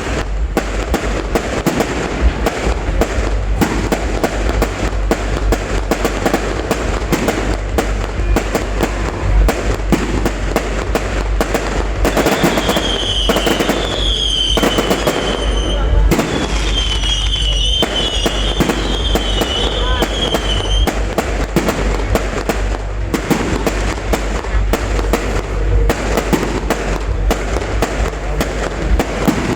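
Fireworks display going off: a dense, continuous rattle of bursts and crackles. For several seconds in the middle a wavering high whistle sounds over it.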